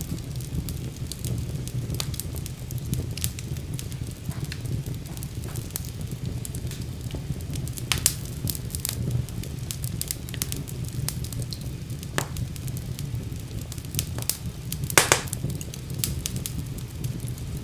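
Wood fire burning in a fireplace: a steady low rumble of the flames with frequent irregular crackles and sharp pops, the loudest pops about 8 and 15 seconds in.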